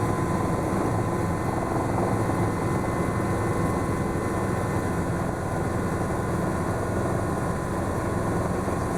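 Schweizer S-300CBi light helicopter running, its piston engine and rotor heard from inside the cabin as a steady drone with a thin whine held over it.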